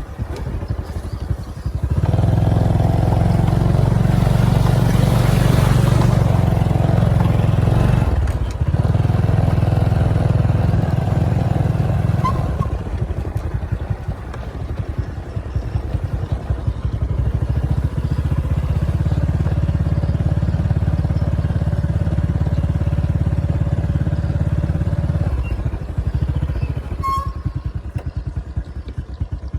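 Motorcycle engine running under way on the road. It gets louder about two seconds in, cuts out briefly around a quarter of the way through, eases off for a few seconds in the middle, runs strong again, and falls back near the end.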